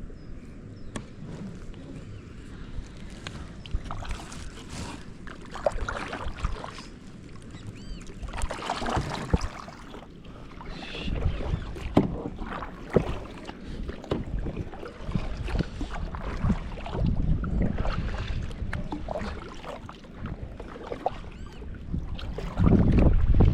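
A canoe being paddled: irregular splashes of paddle strokes in the water and knocks of the paddle and gear against the hull, over a low rumble, growing loudest near the end.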